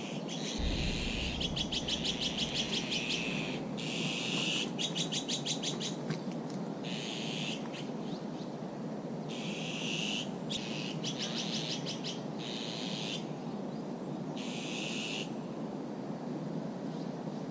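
Small songbirds singing in short repeated phrases, several of them quick rattling trills, every second or two over a steady low background hum.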